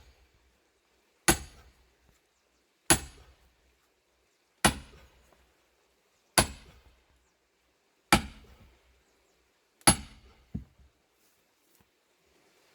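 Hammer blows striking a tool driven into a large plane-tree log: six heavy strikes, one about every second and three quarters, each a sharp clang with a short high ring. A lighter knock follows the last one.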